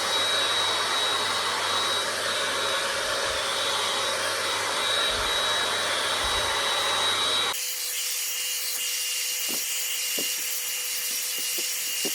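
Electric hot air brush dryer running with a steady blowing noise and a motor whine. About seven and a half seconds in the sound changes abruptly: the low hum drops away and the whine shifts lower.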